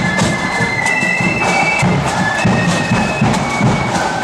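Marching band playing: shrill held melody notes from high wind instruments over a steady drum beat.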